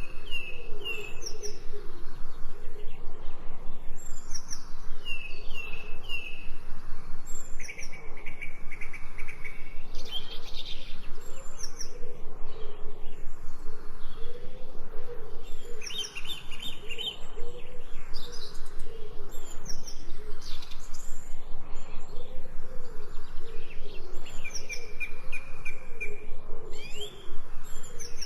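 Songbirds chirping and trilling, many short calls and brief trills. Beneath them a lower, wavering call repeats steadily the whole time.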